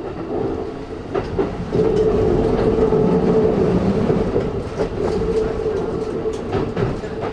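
Keikyu New 1000 electric train heard from inside while running: a steady hum from the Siemens GTO VVVF inverter and traction motors holds one pitch through the middle of the clip, with wheels clicking over rail joints several times.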